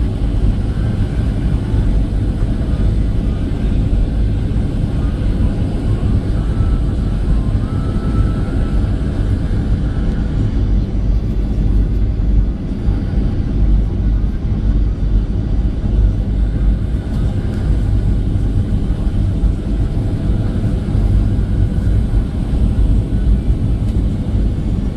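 Airliner cabin noise during landing: a steady, loud, low rumble of engines and rushing air heard from inside the cabin. A faint high whine sits over it for roughly the first ten seconds.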